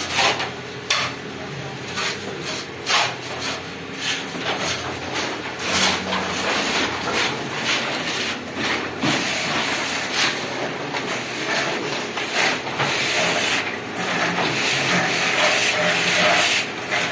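Plastering work: trowels and floats scraping and rubbing cement plaster on a wall in many short, irregular strokes, with knocks and taps among them.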